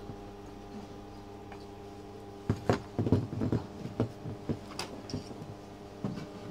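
Metal exhaust pipe pieces being handled and offered up to each other, with a run of irregular knocks and clinks starting about two and a half seconds in, over a steady hum.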